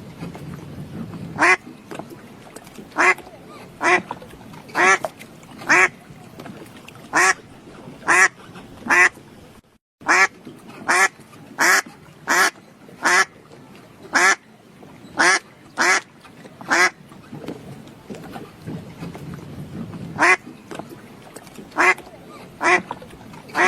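A duck quacking over and over, loud short quacks about a second apart, with a few seconds' pause about two-thirds of the way through before the calls resume.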